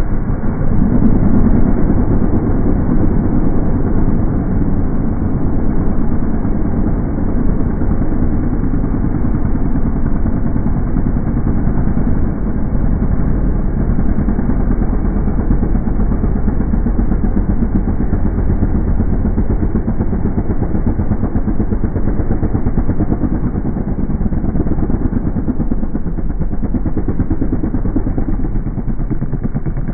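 Motocross dirt bike engine running steadily and loudly, with a fast, even firing pulse and no big revs.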